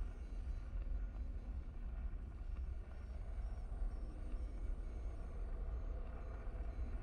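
Steady low rumbling drone with faint held tones above it.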